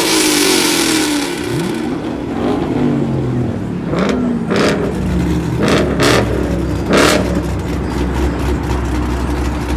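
Car engines revving up and falling back, with about five sharp bangs between roughly four and seven seconds in.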